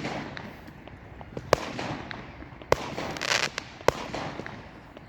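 Fireworks going off: three sharp bangs about a second apart, with a burst of crackling between the second and third.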